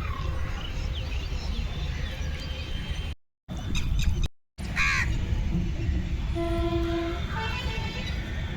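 Steady low outdoor rumble. The sound cuts out twice briefly between about three and four and a half seconds in, and about six seconds in a short honk with several stacked tones sounds.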